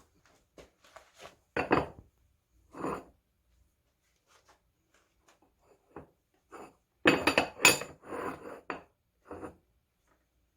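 Steel parts clinking and clanking together as they are handled and set down. There are a few short bursts: one about a second and a half in, one near three seconds, and a busier, louder cluster around seven to eight seconds.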